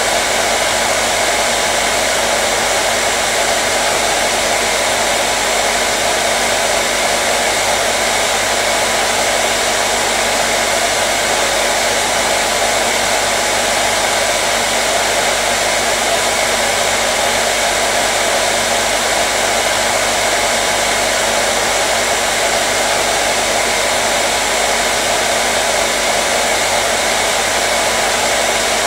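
Hair dryer running steadily: an even rush of blown air over a motor hum, without change.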